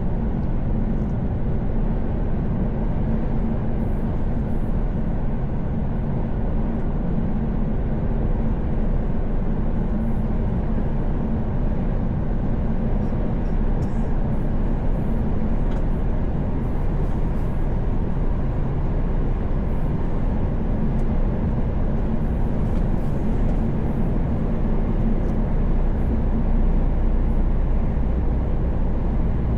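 Mercedes-Benz Actros truck cruising on the motorway, heard from inside the cab: a steady engine drone with tyre and road noise. A low hum grows stronger near the end.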